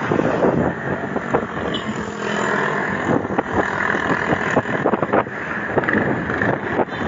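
Wind rushing over the microphone while riding, mixed with passing road traffic: a steady, ragged rushing noise with no clear engine note.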